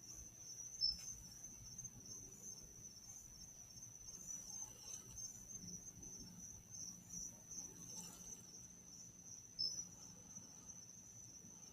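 Faint, steady trilling of crickets, one high pitched note that pulses slightly. Two sharp clicks cut in, one about a second in and one near the end.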